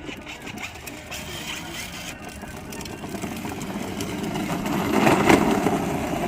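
Electric drive motors and gearboxes of a 12-volt ride-on toy car whirring as it drives under remote control, its plastic wheels rolling on the ground. The sound grows louder to a peak about five seconds in.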